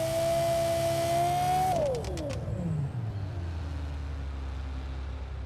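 Lexus LFA's 4.8-litre V10 held at high revs with a steady high-pitched wail, rising slightly. About two seconds in the revs fall away quickly as the throttle is released, and the engine settles into a low steady hum.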